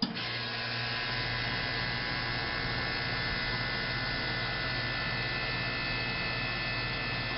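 Central air conditioner condensing unit running: a steady hum from the compressor under an even airy rush, unchanging throughout.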